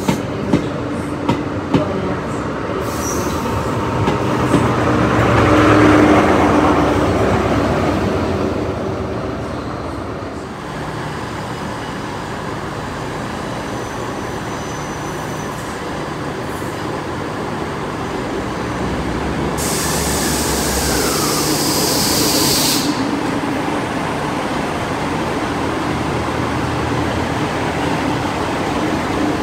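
A ScotRail HST rolls slowly along the platform, its wheels clicking over rail joints. The noise swells to its loudest about six seconds in as the train passes. Then a ScotRail Class 158 diesel multiple unit approaches and draws in, its underfloor diesel engines running steadily, with a brief hiss partway through.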